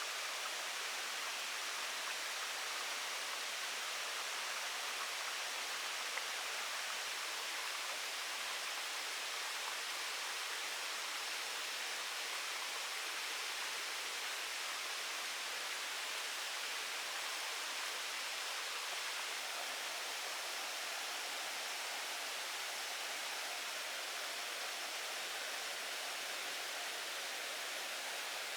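Steady, even rushing hiss of outdoor ambience, with no distinct events.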